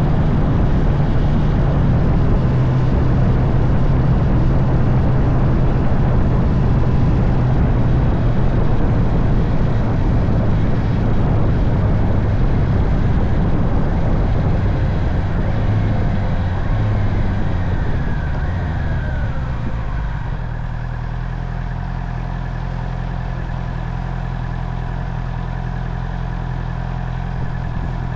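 Honda CB650R's inline-four engine running under way with heavy wind rush, easing off and slowing, then settling to a steady idle about twenty seconds in.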